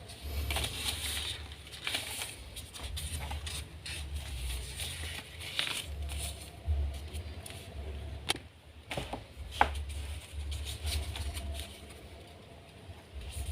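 Paper being folded and creased by hand: irregular rustling and crinkling with sharp little clicks, and dull bumps of hands against the work surface.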